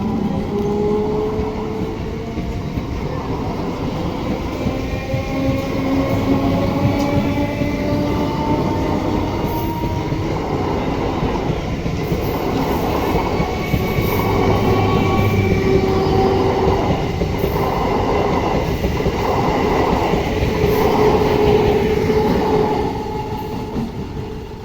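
Bandel-Katwa electric multiple unit (EMU) local train moving past, with motor tones that slide slowly in pitch and a rhythmic clatter of wheels over the rail joints. It fades near the end.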